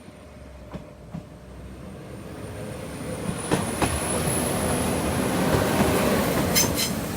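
Class 197 diesel multiple unit train coming up to and running over a level crossing, getting louder until it is at its loudest about two thirds of the way in. Sharp wheel clacks sound over the rail joints a few times.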